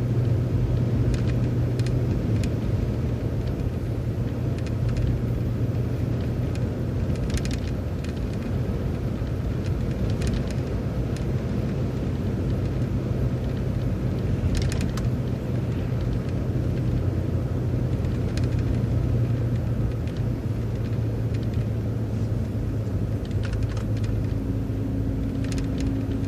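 Transit bus driving steadily along the road: a continuous low engine drone and road rumble, with a few brief rattles or clicks now and then.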